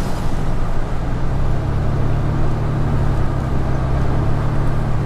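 Inside a moving vehicle: a steady low engine drone over the rush of road and tyre noise. The drone gets stronger a little over a second in.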